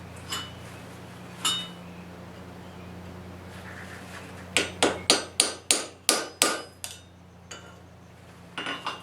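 Hammer blows on metal, ringing: two single strikes, then a quick run of about nine blows at roughly four a second, and a short cluster near the end. A steady low hum runs underneath.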